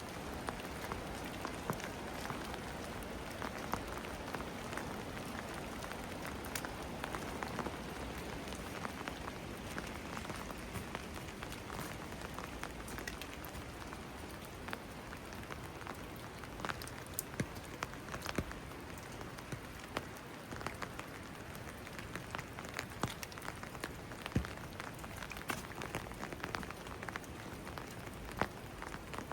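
Steady rain falling, with many single drops tapping sharply close by.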